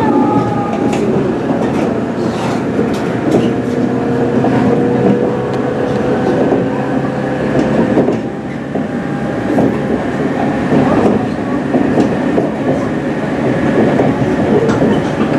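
JR West 103 series electric train running, heard from on board: a continuous rumble of wheels on rail with a traction-motor whine that rises gently in pitch partway through, and scattered clicks from the rail joints.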